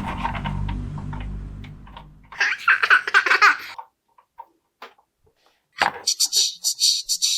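Laughter-like sound effects: a low hum fades out, then a short burst of laughter. Near the end comes a high-pitched, rapidly pulsing giggle.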